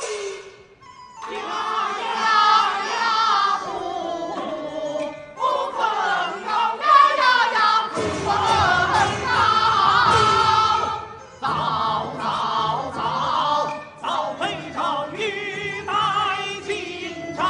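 A large company of opera performers, men and women, singing together as a chorus, in phrases with short breaks between them.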